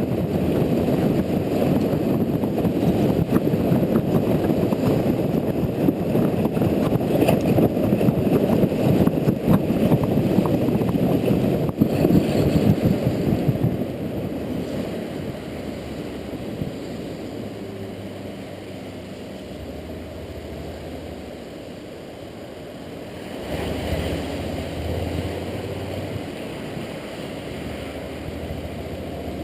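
Riding on a Honda Integra NC750D on wet roads: loud wind rush and tyre noise over its parallel-twin engine. The rush drops off about halfway through, leaving the engine's low hum, which picks up again near the end.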